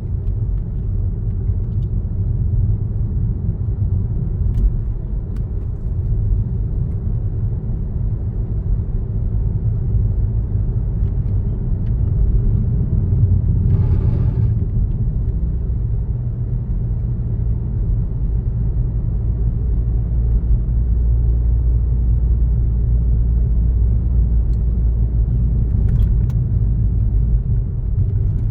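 Car driving along a road, a steady low rumble of engine and tyres. Just before halfway a brief, brighter hiss rises over it for about a second.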